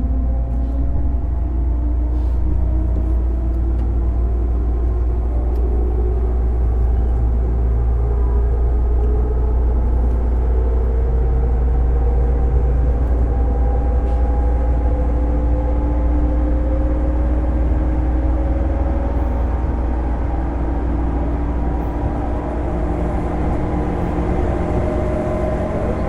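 A JR East 205 series electric train's MT61 external-fan traction motors running, their whine rising slowly in pitch over a heavy low rumble as the train gathers speed.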